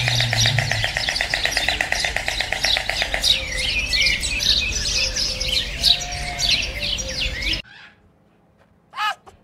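Birds chirping and calling: a fast rattling trill for the first few seconds, then varied high chirps, which stop abruptly about seven and a half seconds in. A single short, sharp animal yelp comes near the end.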